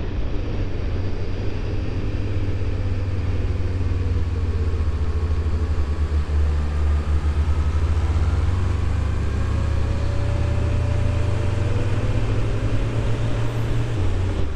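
Honda VFR800Fi's V4 engine running steadily on the road, a low rumble with faint rising and falling pitch as the throttle changes, under a constant rush of wind noise.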